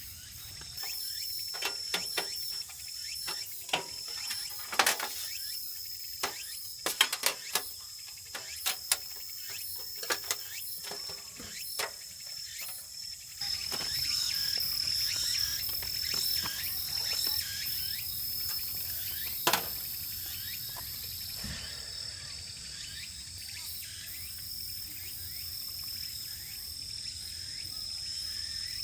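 Insects singing in a steady, continuous high-pitched trill, with a scatter of sharp clicks and knocks over the first half and a louder even hiss in the second half.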